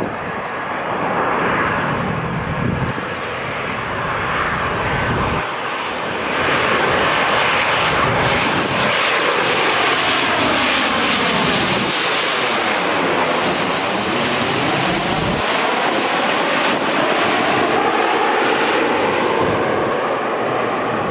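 Boeing 737-800 jet engines on landing approach, passing close by. A steady jet rumble swells, and about two-thirds of the way through a high whine slides down in pitch while the sound sweeps and phases as the airliner goes past.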